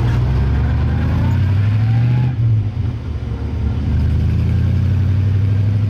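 Daimler SP250's 2.5-litre V8 running on the move through its twin exhaust, revs rising gently for about two seconds, dipping briefly, then holding steady.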